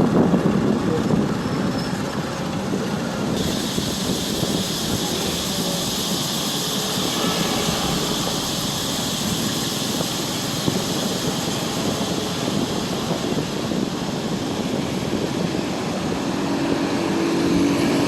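Steady running noise of a moving motorbike, with wind buffeting the microphone.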